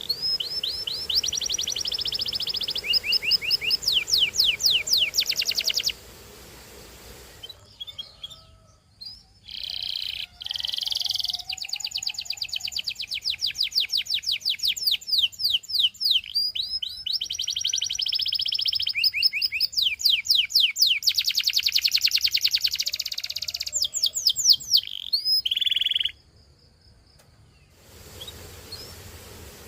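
Domestic canary singing a long song of fast trills, each a run of rapidly repeated sweeping notes, switching from one trill type to the next. The song breaks off for a second or two about a quarter of the way in and again near the end.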